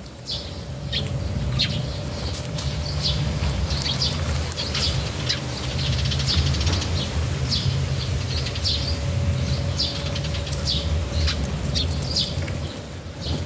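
Small birds chirping over and over in quick short calls, with wings flapping as they come and go at the bird food. A steady low rumble runs underneath.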